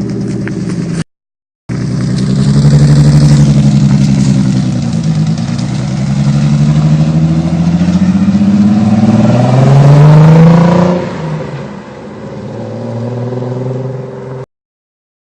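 Nissan 300ZX's 3.0 V6 running through a custom HKS exhaust, being revved: the engine note rises and falls in several blips, climbing highest about ten seconds in, then drops back to a steadier lower note. The sound cuts out briefly about a second in and again near the end.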